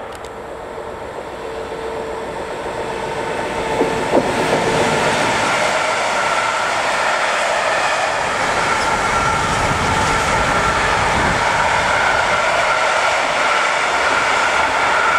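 Electric freight train passing: the locomotive's sound builds over the first few seconds with a steady hum. A long string of empty container flat wagons then rolls by, wheels rumbling and clattering on the rails with a steady high ringing tone.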